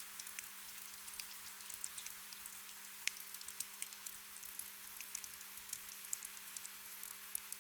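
Gentle rain: a steady hiss with many scattered drops ticking irregularly, over a faint steady low hum.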